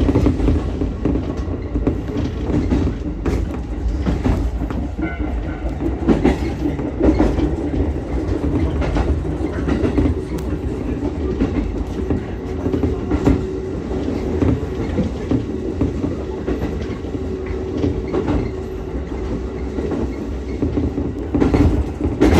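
Ichibata Electric Railway 7000-series electric railcar running along the line: a steady rumble of wheels on rail, with irregular clicks and knocks as the wheels cross rail joints.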